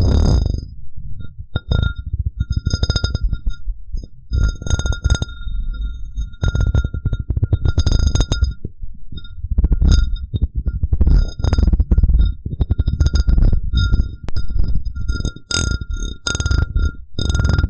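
Glass cup rubbed and tapped against a microphone: irregular strokes of dull, rumbling handling noise, each with sharp clinks that leave the glass ringing with a clear tone.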